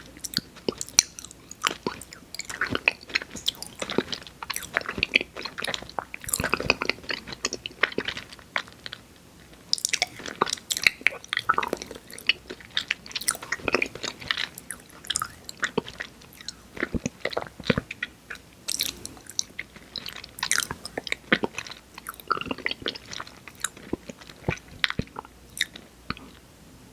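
Close-miked chewing and biting on candy sweets: a run of irregular crisp crunches and mouth clicks, with short breaks between mouthfuls.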